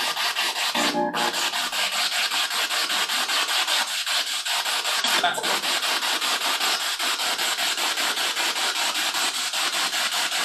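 Spirit box sweeping through radio frequencies: loud static chopped into rapid, even pulses, with brief snatches of pitched radio sound about a second in and again just past five seconds.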